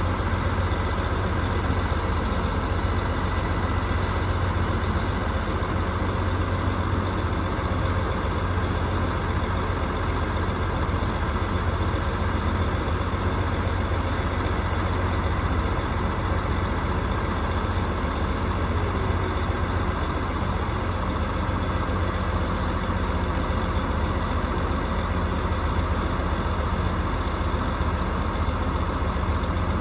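HVAC rooftop unit running: a steady, unchanging mechanical hum with a strong low drone.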